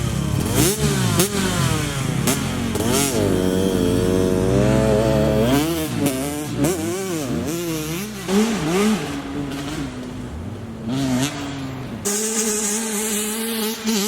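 Dirt bike engines revving up and down repeatedly as the bikes ride off, changing to a steadier engine note about twelve seconds in.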